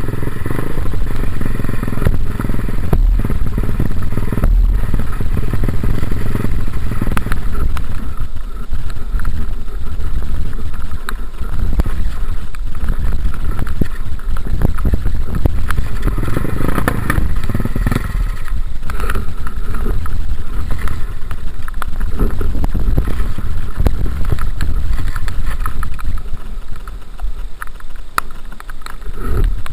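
Dirt bike engine running under way as the bike is ridden, the level rising and falling with the throttle and easing off briefly near the end.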